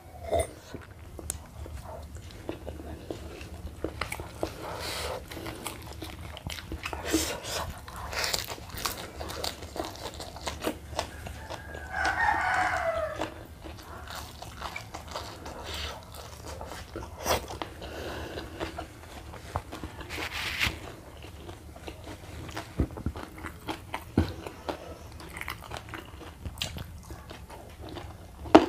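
A person chewing and biting food by hand, with scattered crunches and smacks. About twelve seconds in, a rooster crows in the background: one falling call lasting about a second.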